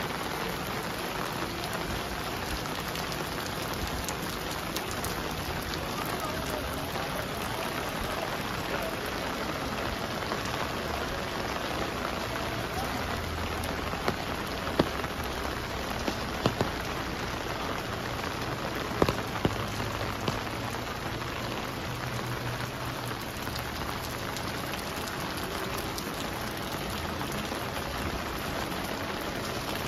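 Steady rain falling, an even hiss, with a few sharp taps around the middle.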